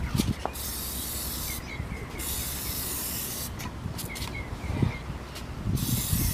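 Aerosol spray-paint can spraying in three bursts of about one to one and a half seconds each, with short pauses between, as words are sprayed onto a car.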